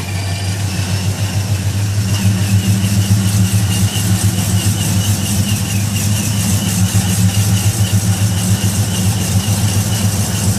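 Procharger-supercharged 5.3-litre V8 of a 2012 Chevy Silverado, fitted with an LS9 blower cam, long-tube headers and a Magnaflow exhaust, idling after a cold start. It has a regular pulsing lope that grows a little stronger about two seconds in, a sound that doesn't sound stock.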